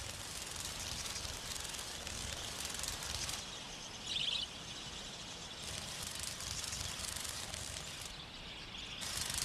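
Outdoor bush ambience: a steady hiss whose upper part cuts in and out several times, with one short, high bird chirp a little after four seconds in.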